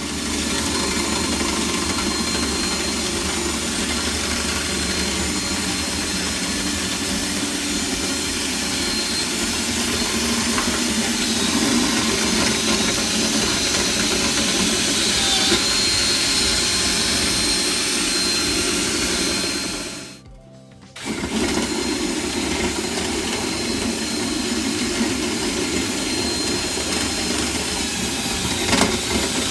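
Power drill running steadily, spinning a dryer vent cleaning brush on connected rods inside the rigid dryer duct. It stops for about a second around two-thirds of the way through, then starts again.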